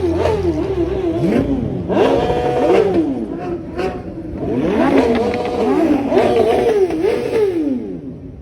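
Vehicle engines being revved over and over: a few quick blips, then longer revs that climb, hold near the top and fall back, several times in a row.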